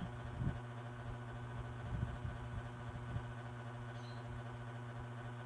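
One-step hot-air brush (hair dryer and styler) running steadily, its motor humming under the rush of air.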